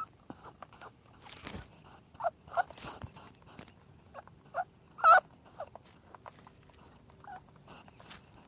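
Rabbits squeaking: a handful of short, high squeaks, the loudest about five seconds in, among soft clicks and rustling.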